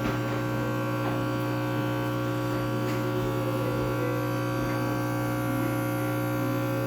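High-pressure steam cleaner running with a steady electric hum and buzz.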